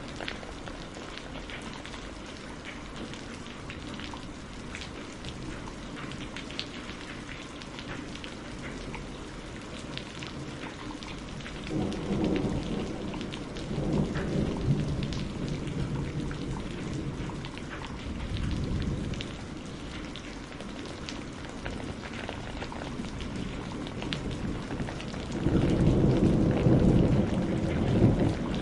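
Steady rain with the ticking crackle of a burning wood fire. Low rumbles of thunder swell about twelve seconds in and again near the end.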